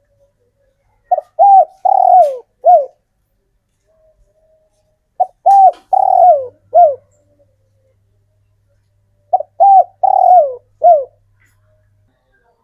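Male spotted dove (tekukur) cooing: three phrases about four seconds apart, each two quick notes, a longer drawn-out coo and a short final note, every note falling in pitch. It is the male's calling song, used to call females.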